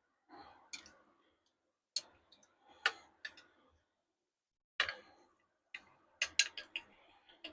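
Scattered light clicks and taps from handling bait-pouring tools and the mould, with a quick run of clicks near the end.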